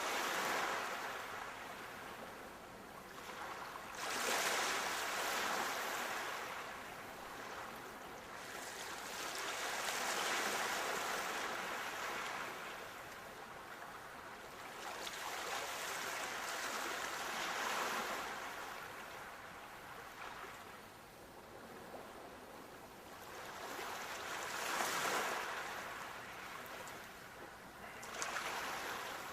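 Sea waves breaking and washing onto the shore, the surf swelling and falling away every four to six seconds.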